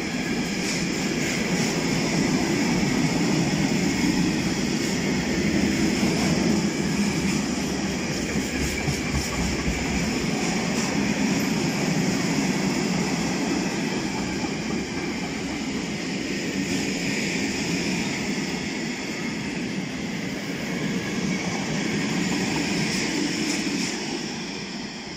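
Long freight train of tank wagons rolling past close by: a steady rumble of steel wheels on the rails, fading near the end as the train draws away.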